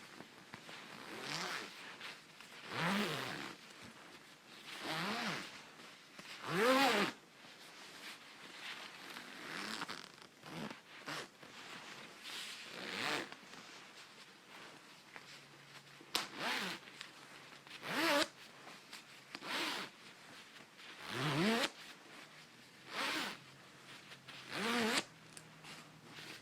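Zipper on a 66°North packable coat being zipped quickly up and down, over and over: about fifteen short zip runs, one every second or two, several with a pitch that swoops up and back down.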